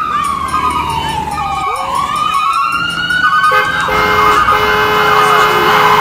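Siren wailing, its pitch sliding slowly down and then back up, with a second steady blaring tone joining about halfway through.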